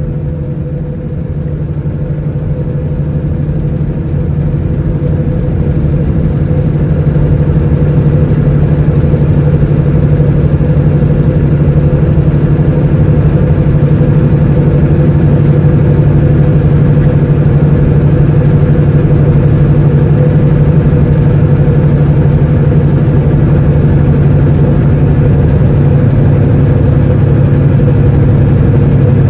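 Semi-truck's diesel engine running with a steady drone, growing louder over the first several seconds and then holding level.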